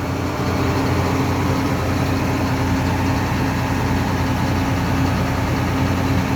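John Deere 9500 combine's diesel engine running steadily, with the machine's steady mechanical hum; it gets a little louder about half a second in and then holds steady.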